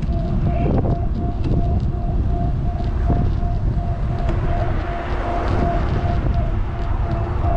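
Wind buffeting the microphone of a camera on a moving electric bike, with the rumble of tyres on the path and a steady, slightly pulsing high whine.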